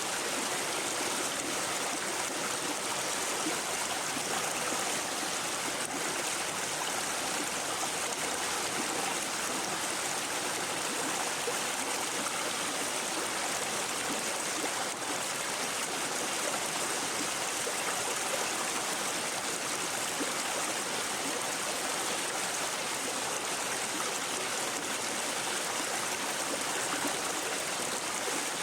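Babbling brook: shallow stream water running and burbling steadily over stones.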